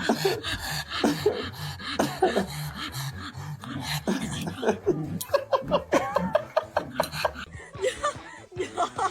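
A person laughing, over a run of many short, sharp clicks.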